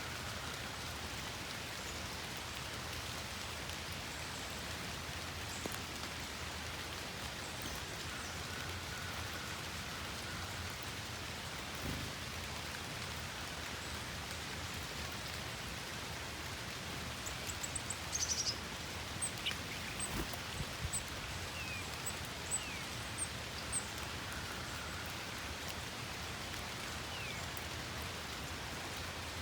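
Steady rain falling and pattering on surfaces, with a few brief, faint, high bird chirps in the second half.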